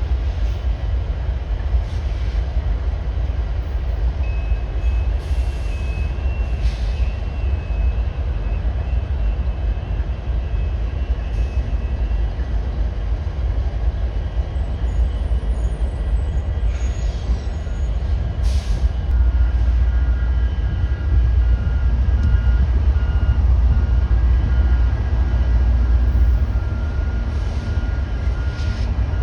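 Train rolling by with a steady low rumble and scattered short clanks, and a faint, evenly repeating beep through the second half.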